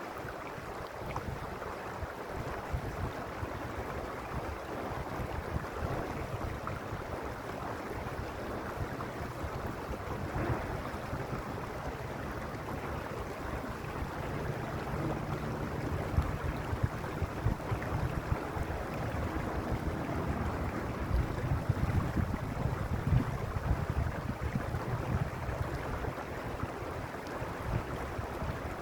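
Mountain stream rushing over stones, a steady wash of flowing water, with gusts of wind buffeting the microphone as low rumbles that grow stronger after the middle.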